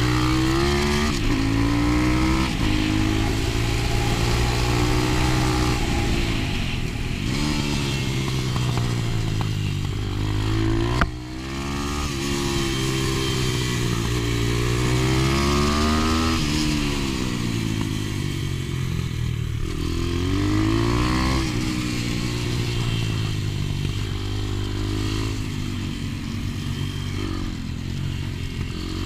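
125 cc pit bike engine being ridden hard, revving up and falling back over and over as the pitch climbs and drops. A single sharp knock sounds about eleven seconds in.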